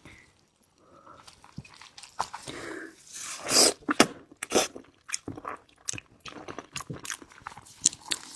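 Close-up mouth sounds of a person biting into and chewing pork hock: a run of wet smacks and clicks. The loudest bites come about halfway through.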